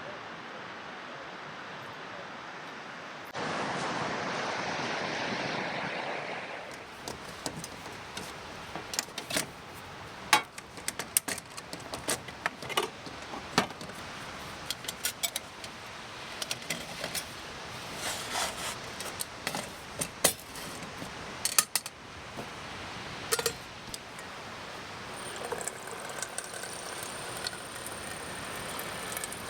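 A steady background wash, then a louder rush of noise for about three seconds. After that come many scattered sharp metallic clicks and clinks of gear being handled, with a faint steady high tone near the end.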